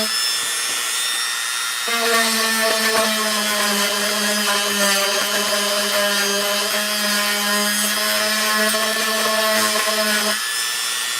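A small electric motor running steadily with an even hum for about eight seconds, starting about two seconds in and cutting off near the end.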